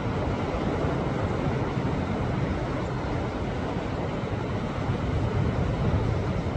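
Sea waves surging against a rocky shore: a steady, deep wash of churning water that swells a little near the end.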